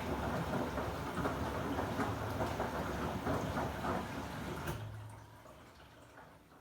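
Samsung Digital Inverter front-loading washing machine in its rinse cycle: the drum tumbling the wet laundry with water sloshing over a low motor hum. Near the end there is a click and the tumbling stops, the sound falling away to a faint hum.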